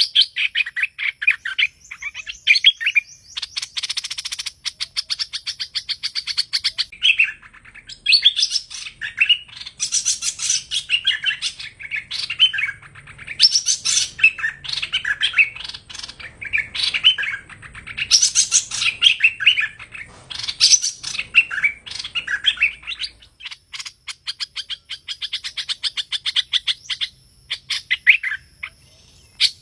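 Hoành hoạch bird singing the 'thơm' song type used as a trapping lure: rapid runs of high chirping notes in phrases of a few seconds each, with short pauses between them.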